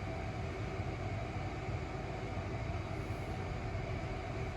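Steady low background hum with a hiss, unchanging throughout, with no distinct events.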